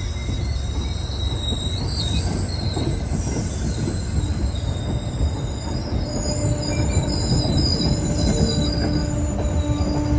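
MBTA commuter rail train rolling by with a steady low rumble and thin, high-pitched wheel squeal from the rails. A steady mid-pitched tone sets in about six seconds in.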